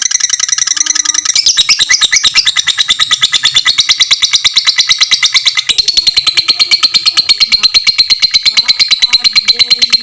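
Lovebird giving its long 'ngekek' chatter: an unbroken run of fast, sharp, high repeated notes, about ten a second.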